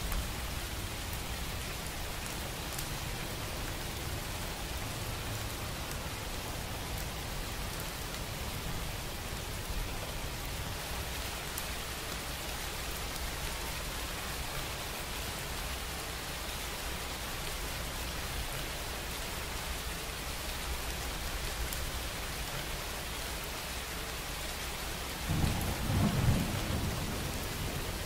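Steady rain falling, an even hiss with no letup. A low rumble swells up about 25 seconds in and is the loudest moment before it fades.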